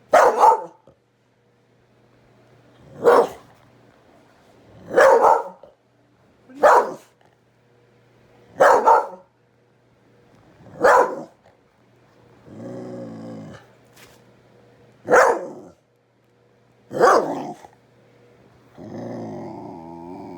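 A dog barking at a kitten: single loud barks about every two seconds, eight in all, broken twice by a long low growl, once past the middle and again near the end.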